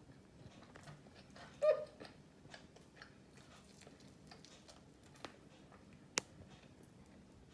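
Close-up eating sounds of someone chewing fried chicken: scattered soft mouth clicks and smacks, with a brief louder mouth sound near the start and a sharp click about six seconds in.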